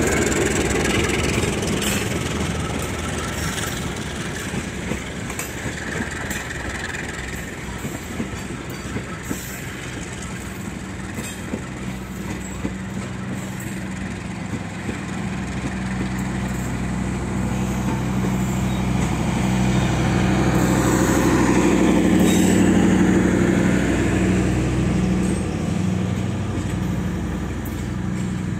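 Passenger train coaches rolling past close by, their wheels clicking over the rail joints. A low steady hum grows louder in the second half, is loudest a little after two-thirds of the way, then eases.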